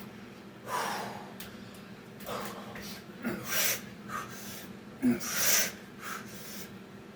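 Heavy, forceful breathing of a man working through Navy SEAL burpee reps: a hard, hissing exhale or gasp about every second and a half. A few short knocks sound between breaths, the sharpest about five seconds in.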